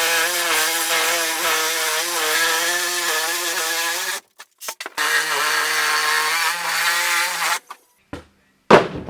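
Power saw cutting through wood framing: a loud whine that wavers in pitch as it bites, in two runs of about four and two and a half seconds, followed near the end by one sharp knock.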